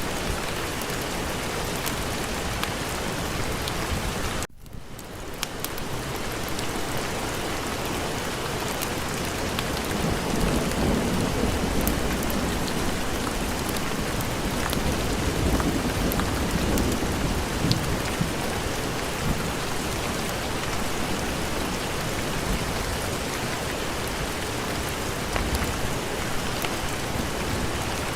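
Steady heavy rain with a low rolling rumble of thunder that swells and fades through the middle. About four and a half seconds in, the sound briefly drops almost out and fades back in.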